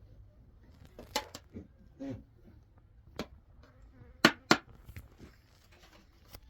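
A few short, sharp knocks or clicks at irregular intervals over a faint low hum; the two loudest come in quick succession just after four seconds in.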